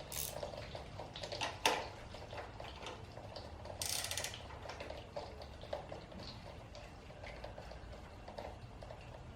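Faint metallic clicks and clinks of a hand wrench turning a loosened nut on the motorcycle's front end, with a sharper knock about 1.7 seconds in and a short rasping burst of rapid clicks about 4 seconds in.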